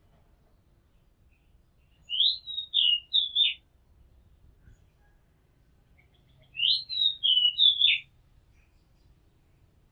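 Oriental magpie-robin singing: two short phrases of clear whistled notes sweeping up and down, the first about two seconds in and the second, slightly longer, about six and a half seconds in, with pauses between.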